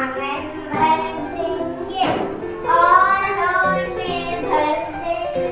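Children reciting a Hindi rhyme in a sing-song chorus.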